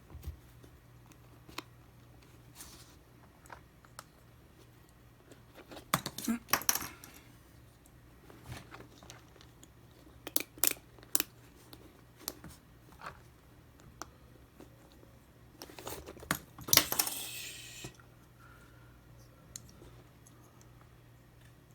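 Scattered light clicks and taps of small hard parts and a small tool being handled, with two louder clattering bursts, one about six seconds in and one around seventeen seconds.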